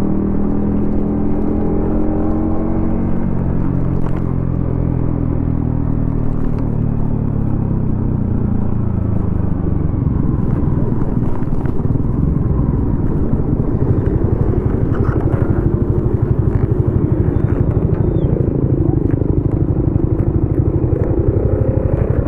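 Yamaha XSR155's single-cylinder engine through a DIY exhaust, slowing with falling pitch over the first ten seconds. It then runs at low revs with a quick, even exhaust pulse, picking up slightly near the end.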